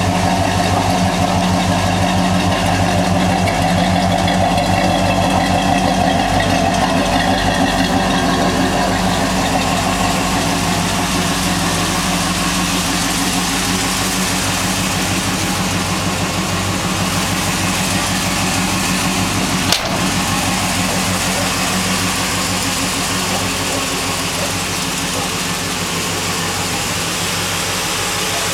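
1959 Chevrolet pickup truck's engine idling steadily, with a single sharp click about twenty seconds in.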